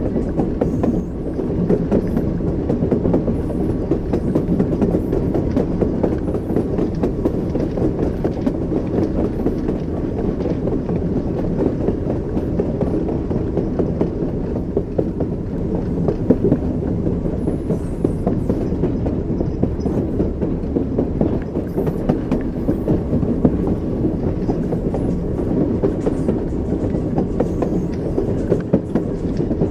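Train in motion: a steady low rumble with the knocking of the wheels over the rails.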